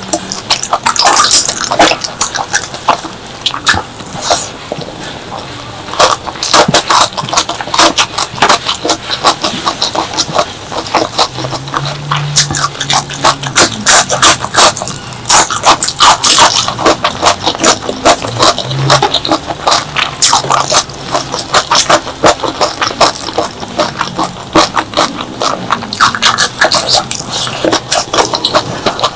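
Close-miked eating of spicy clams with chili paste: wet chewing and lip smacking in a dense, unbroken run of sharp clicks and crunches.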